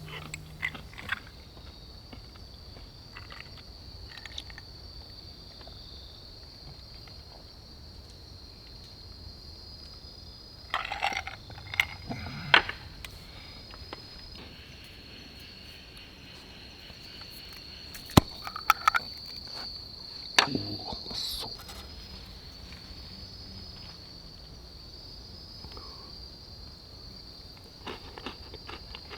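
Insects trilling steadily at a high pitch, with a few sharp clicks and knocks scattered through.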